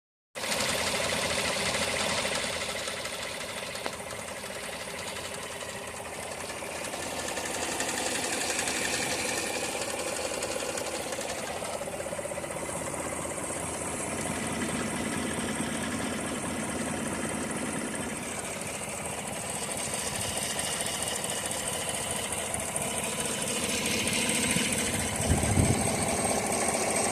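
Engine running with a rapid, even ticking from the valvetrain: lifter noise that has got worse. Near the end it briefly swells louder.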